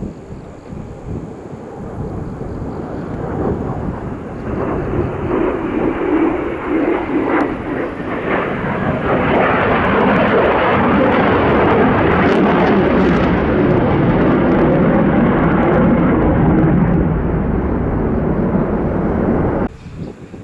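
F-15 fighter jet making a pass with its twin turbofan engines. The jet noise builds over several seconds, stays loud for a long stretch, then cuts off suddenly near the end.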